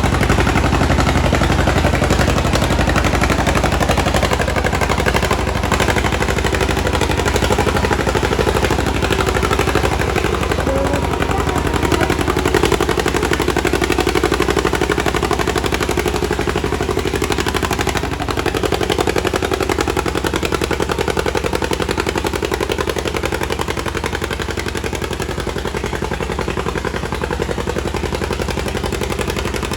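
Antique farm tractor engine at full throttle under heavy load, pulling a weight-transfer sled down the track, its exhaust pulses coming fast and steady.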